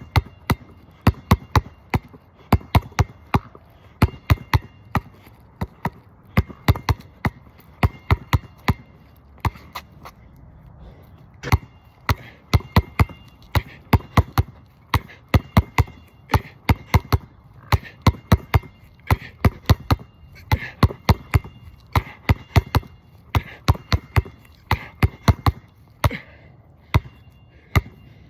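Basketball dribbled hard and fast on a court: quick runs of sharp bounces with short breaks between them, and a longer pause about ten seconds in.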